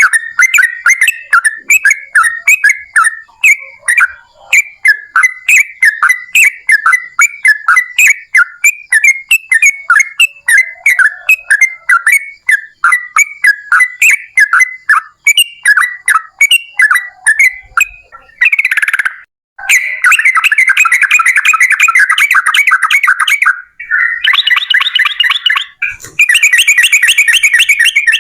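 Yellow-vented bulbul (trucukan) singing: a quick run of chirping, whistled notes, about four a second, then from about 18 seconds in long, fast, rattling trills in several runs with short breaks between them.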